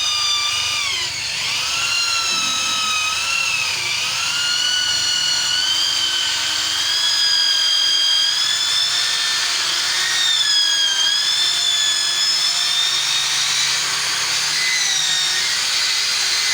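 Electric drill running continuously while drilling the dome-shaped top piece of a bird cage. Its high whine sags and rises again in pitch as the bit takes load and frees.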